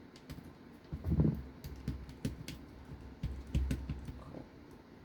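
Light clicks and taps of small RC car parts and a hand driver being handled on a workbench, with dull knocks about a second in and again around three and a half seconds in.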